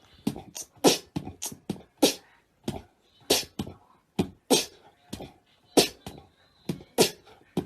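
A dog panting hard in short, sharp breathy puffs, about two or three a second at an uneven pace.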